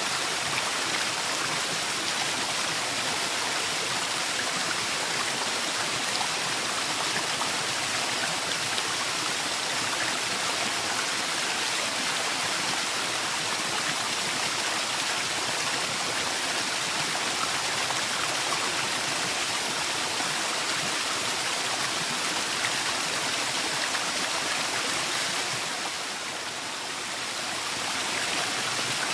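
Waterfall in a forest, a steady rush of falling water, dipping slightly in loudness for a moment near the end.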